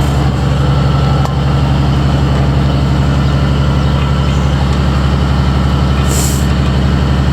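An engine idling steadily throughout. There is a small click just over a second in, and a brief high hiss, like escaping air, about six seconds in.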